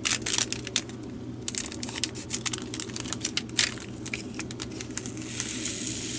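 Resin diamond-painting drills being tipped out of a small plastic bag into a plastic storage container: a quick scatter of tiny clicks with the bag crinkling. About five seconds in it turns to a steadier hiss as the drills slide out together.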